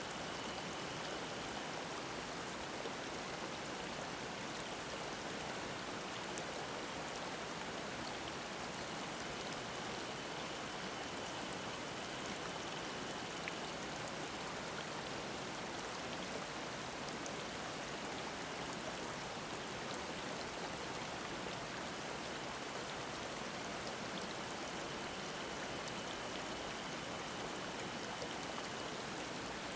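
Mountain stream babbling, a steady even rush of water. Cicadas sing faintly as a thin high buzz in three stretches: near the start, in the middle and near the end.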